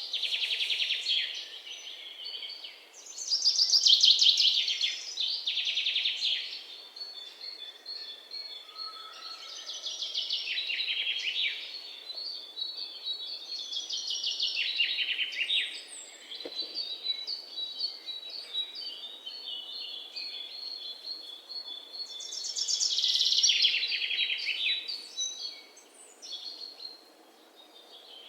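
A songbird singing in repeated bouts of fast, high trills, about five bouts, with a thinner run of high whistled notes between them.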